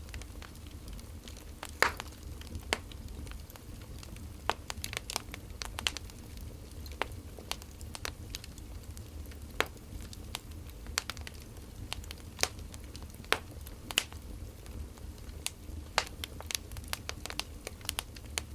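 Burning firewood crackling: irregular sharp pops and snaps, several a second at times, over a steady low rumble.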